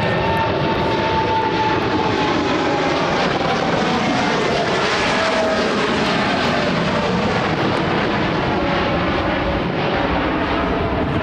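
Jet airliner passing low overhead, its engines loud and steady, with a whining tone that slowly falls in pitch as it goes by.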